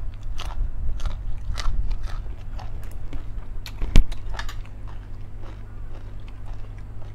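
Close-up crunchy chewing of a raw green vegetable, crunches coming about twice a second and thinning out in the last few seconds. One sharp, loud click about four seconds in.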